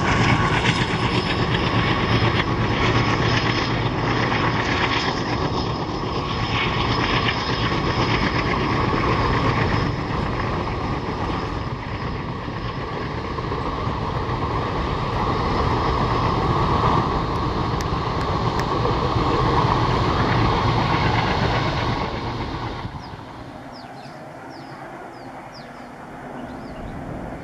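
A long passenger train's coaches rolling along the track with a steady rumble and wheels clattering over the rails. About 23 seconds in the train noise drops away sharply, leaving quieter outdoor sound with short bird chirps.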